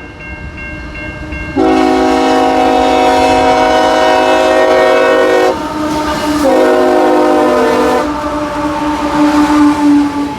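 Freight locomotive air horn sounding a multi-note chord in a long blast of about four seconds, then a shorter blast, then a single lower note held near the end, in the pattern of a grade-crossing warning. A fast repeating ring sounds underneath before the first blast, and a steady hiss of rain and train noise runs throughout.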